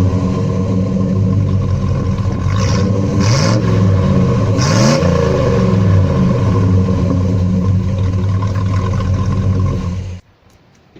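Small-block Chevy V8 of an S10 4x4 running loud through a Magnaflow exhaust, its pitch shifting up and down between about three and five seconds in. The sound cuts off suddenly about ten seconds in.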